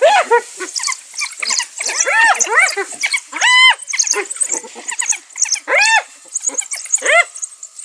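Spotted hyenas and African wild dogs calling during a fight: a run of squealing calls that each rise and fall in pitch, overlapping one another, with high twittering chirps throughout.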